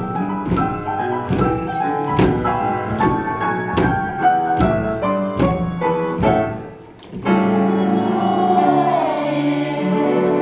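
Boogie-woogie piano accompaniment on a steady beat, then after a brief break about seven seconds in, a choir of voices holds a long final note with vibrato over a sustained piano chord.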